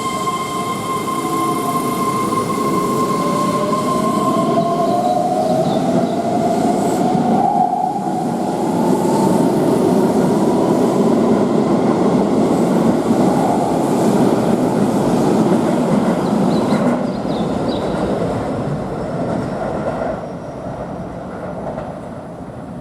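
Keihan electric train running through the station. Its motor whine rises in pitch as it picks up speed over a heavy rumble of wheels on the rails, which swells and then fades near the end. For the first few seconds a steady high whine of several tones is heard, and it stops about five seconds in.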